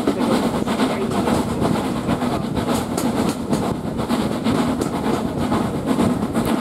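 Heritage railway carriage running along the line behind LSWR S15 No 506: a steady rumble of wheels on the rails with occasional clicks over rail joints.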